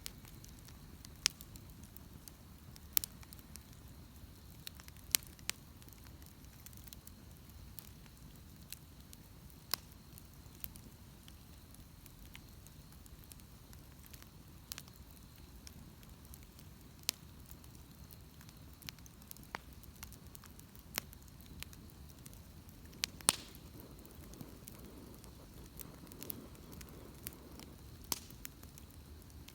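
Bonfire burning: irregular sharp crackles and pops over a low steady rumble, the loudest pop coming about 23 seconds in.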